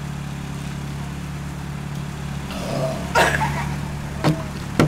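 Car engine idling steadily, with a short cough-like sound about three seconds in and a couple of sharp knocks near the end.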